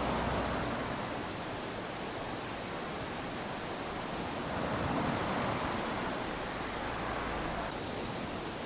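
Small waves washing onto a sandy beach: a steady surf noise with one slow swell about halfway through, ebbing again near the end.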